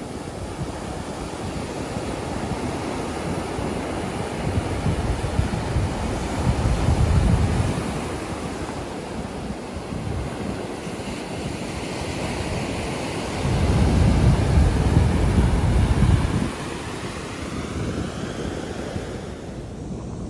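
Ocean surf washing onto the beach, with wind rumbling on the microphone. The sound swells louder twice, around five to eight seconds in and again from about thirteen to sixteen seconds.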